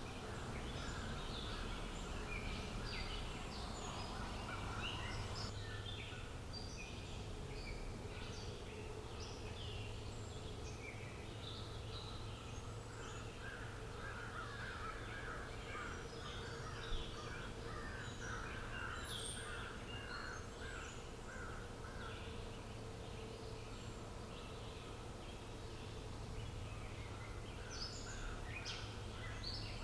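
Several wild birds chirping and calling in quick, overlapping short notes over a steady low outdoor background noise. A rapid run of repeated notes comes in for several seconds midway.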